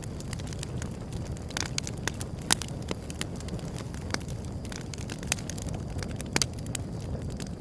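Wood fire burning, with a steady low rumble and irregular sharp crackles and pops, the loudest about two and a half seconds in.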